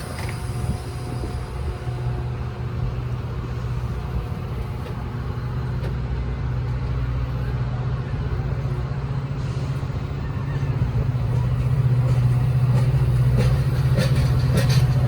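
Heavy diesel engine running with a steady low hum that grows louder over the last few seconds.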